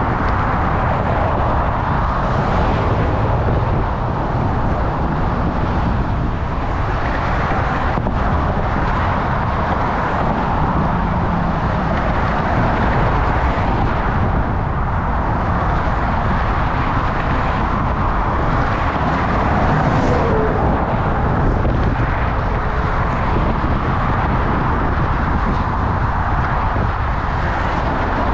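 Steady rush of wind buffeting the microphone of a moving bicycle, with road and traffic noise underneath and no sudden events.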